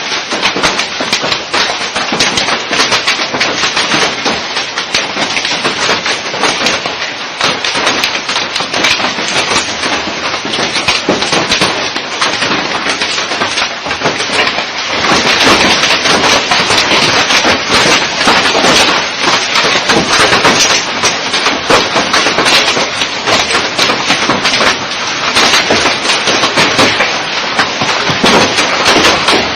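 Hailstones pelting hard surfaces in a heavy hailstorm: a dense, continuous clatter of countless small impacts, growing a little louder about halfway through.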